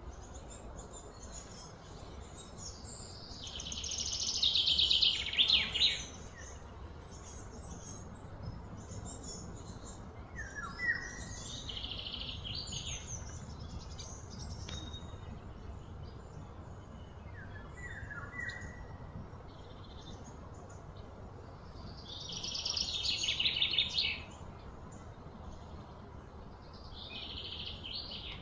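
Birds calling outdoors: two long, loud, rapidly trilled phrases and a couple of shorter ones, separated by brief falling chirps.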